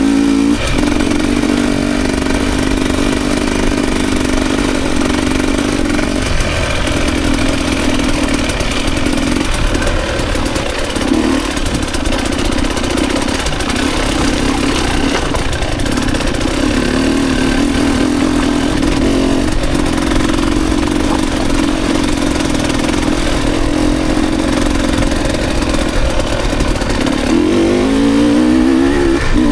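Dirt bike engine running as it is ridden along a trail, its pitch wavering with the throttle, with a few quick revs near the end.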